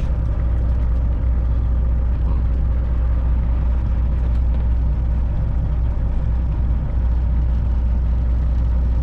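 Straight-piped Detroit diesel engine of a Freightliner Classic XL semi truck idling steadily, heard from inside the cab, with a rattle in the truck that comes only at idle.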